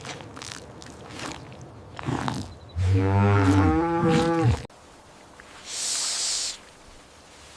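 Faint rustling, then a cow moos once, a pitched call of just under two seconds that cuts off abruptly. About a second later comes a short hiss.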